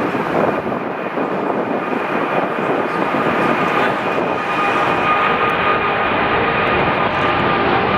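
Jet airliner engines: a steady rushing noise with high whining tones, slowly growing louder.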